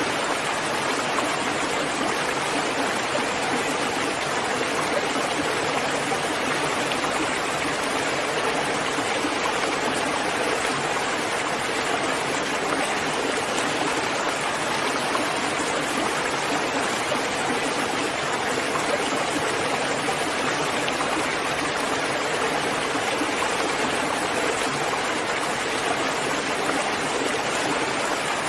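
Steady rain falling, an even, unbroken hiss of water with no single drops standing out.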